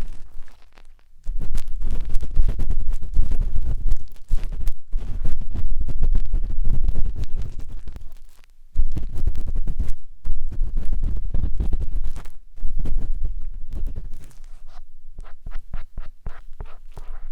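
A matchstick scraping and rubbing inside the silicone ear of a 3Dio binaural microphone: close, dense scratching with a deep rumble. It is broken by a few short pauses and turns lighter and quieter in the last few seconds.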